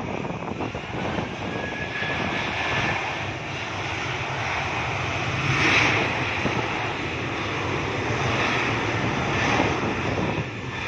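Airliner's engines at takeoff power, a loud steady rushing noise that swells to its loudest a little past the middle as the aircraft passes.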